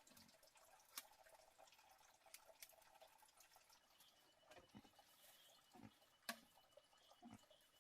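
Near silence with a few faint sharp clicks and soft drips or knocks, the clearest about a second in and about six seconds in. A faint steady high tone comes in about halfway through.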